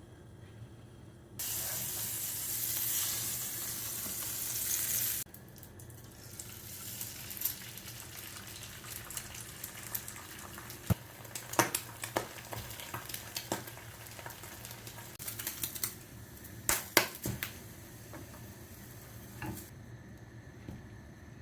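Food frying in a pan, stirred with a utensil that clicks and scrapes against it. Near the start a loud, steady hiss lasts about four seconds and cuts off abruptly.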